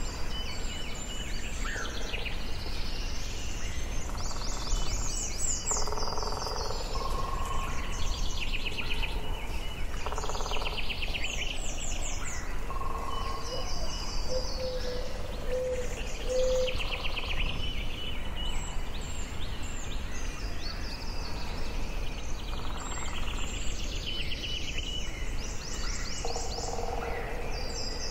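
Forest ambience with several songbirds singing: quick trills and chirps that repeat throughout, some lower whistled notes between them, over a steady low background rumble.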